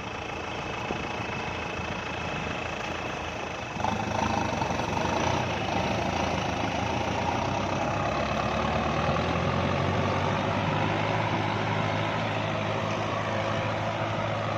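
Kubota tractor diesel engine running. About four seconds in it gets suddenly louder and heavier, then holds a steady working speed.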